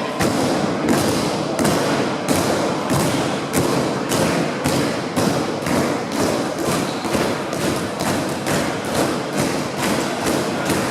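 Wrestling arena crowd stomping and clapping in unison, the beat speeding up from under two to about three a second, over a steady hum.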